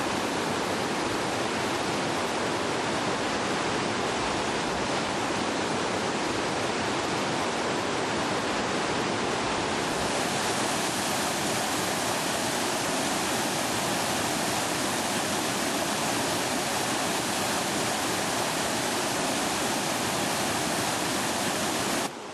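Steady rushing of flowing river water, an even hiss that turns brighter about ten seconds in.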